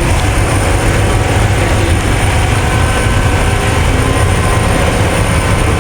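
Passenger ferry's engines running under way: a steady, loud low drone with a rushing hiss over it.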